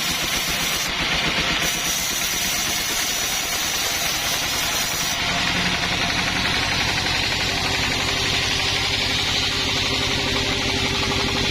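Chainsaw engine running steadily, its sound shifting about five seconds in as a steady mid-pitched tone comes in and the hiss at the top thins out.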